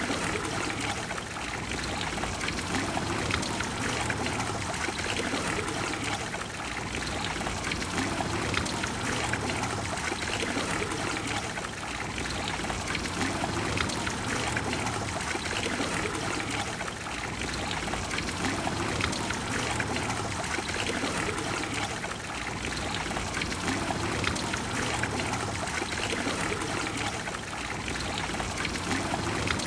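Trevi Fountain's water falling and splashing into its basin, a steady rush of water with gentle swells in loudness.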